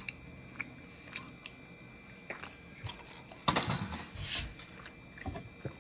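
Quiet chewing of a soft muffin, with small scattered mouth clicks, and a brief louder rustling noise about three and a half seconds in.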